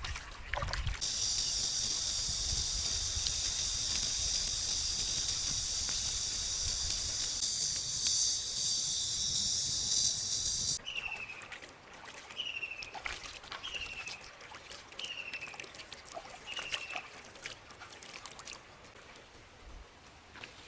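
Forest ambience by a stream, with trickling water under it. A loud, high, steady buzz starts about a second in and cuts off suddenly near the middle. After it come five short, slightly falling chirps, about a second apart.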